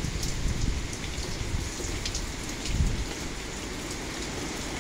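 Hurricane rain falling steadily on the surfaces around, with scattered drops ticking. Gusting wind adds an uneven low rumble underneath.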